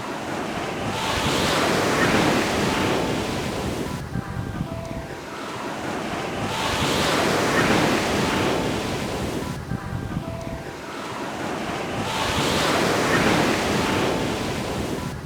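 Ocean surf on a beach: three waves break and wash up the shore, each swelling to a rush and falling back about every five and a half seconds.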